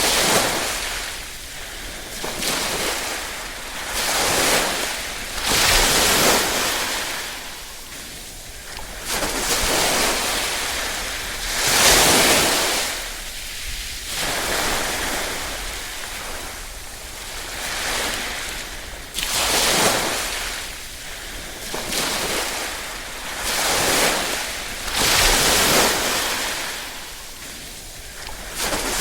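Small waves lapping and breaking on a shore, one soft wash after another every two to three seconds, each swelling with a hiss and then draining away.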